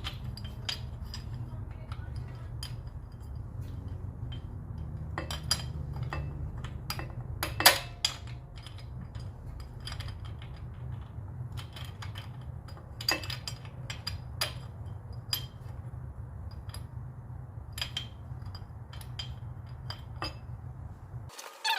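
Steel parts and tools clinking and tapping now and then as the steel-tubing engine mount is fitted, over a steady low hum that cuts off suddenly near the end.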